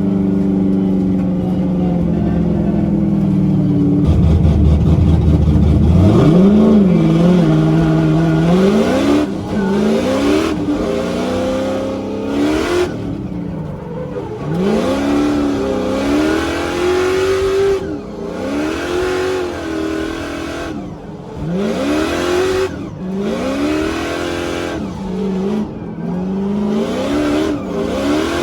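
High-horsepower drift car engine held at a steady note for a few seconds, then revved hard again and again. Its pitch climbs and drops off about every two seconds as the throttle is worked through a drift run.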